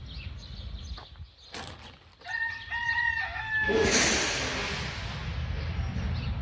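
A rooster crowing once, a pitched call of about a second and a half. It is followed at once by a loud rushing hiss that fades away over a couple of seconds.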